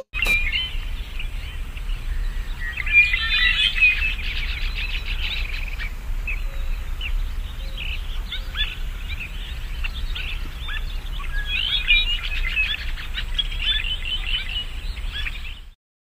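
Songbirds chirping and singing over a steady low rumble, busiest about three seconds in and again around twelve seconds; it cuts off suddenly near the end.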